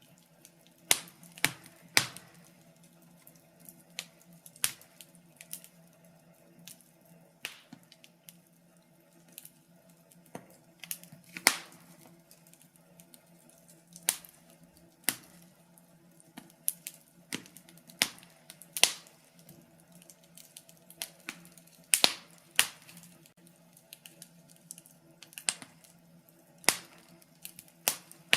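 Wood fire crackling, with irregular sharp pops and snaps, a few every couple of seconds, some much louder than others. A faint steady low hum runs underneath.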